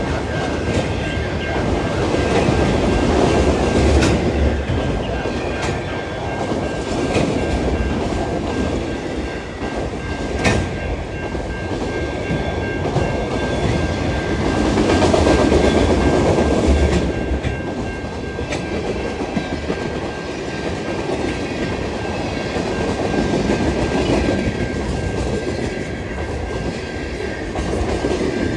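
CN freight train rolling past, its cars' wheels clicking over the rail joints over a steady rumble that swells and eases, with a faint steady high whine throughout and a couple of sharp clicks.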